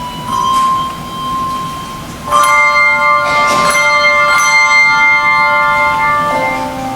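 Handbell choir ringing: a single bell note sounds on its own, then a little over two seconds in a full chord of handbells is struck together and left to ring.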